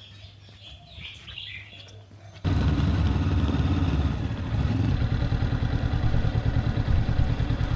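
Birds chirping faintly, then after a sudden cut about two and a half seconds in, a motorbike engine running steadily with a low, fast pulsing note.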